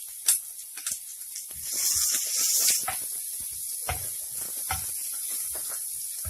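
Chopped small onions going into hot oil and mustard seeds in a pan, sizzling steadily, with a louder surge of sizzling about two seconds in. Scattered light clicks and low knocks run through it.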